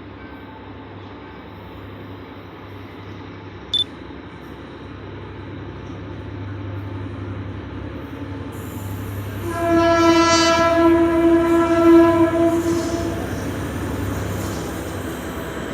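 EMD GT22CW diesel-electric locomotive approaching with a steady low engine rumble that grows louder, then sounding its horn in one long blast of about three and a half seconds, a little past halfway through.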